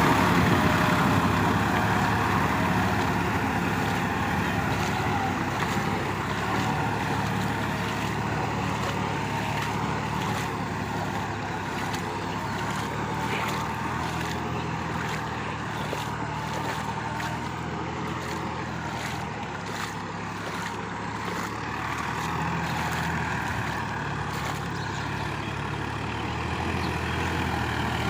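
Sonalika tractor's diesel engine running steadily under work. It is loudest at the start, then eases off slightly and holds an even note.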